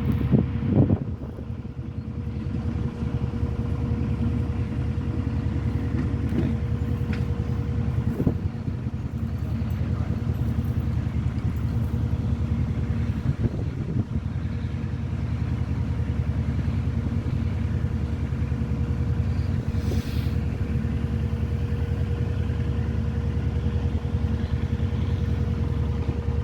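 Lister SR2 two-cylinder air-cooled diesel engine of a narrowboat running steadily under way: a low, even drone with a steady higher hum on top. The engine is a heavy engine said to sound like a dump truck.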